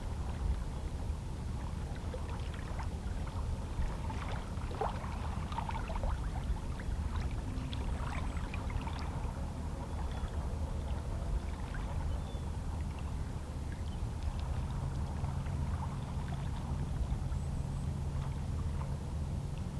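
Small, calm sea waves lapping and splashing against shoreline rocks, with bursts of little trickles and slaps about a quarter of the way in. A steady low hum runs underneath, and a second low hum joins about two thirds of the way through.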